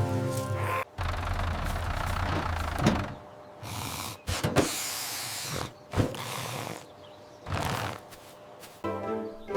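A run of animation sound effects with no music: a low rumbling noise for about two seconds, then a high hiss of air escaping like a tyre being let down around the middle, a sharp click, and short noisy patches after it.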